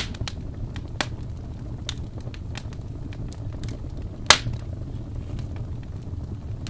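Wood fire burning in a fireplace: a steady low rumble of the flames with irregular sharp crackles and pops, the loudest pop about four seconds in.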